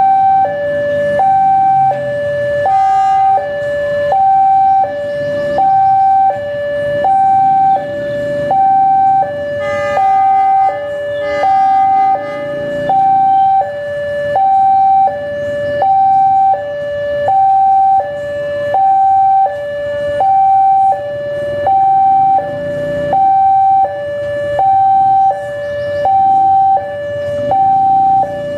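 Two-tone hi-lo siren switching evenly between a higher and a lower pitch about every second and a quarter, with a low rumble underneath.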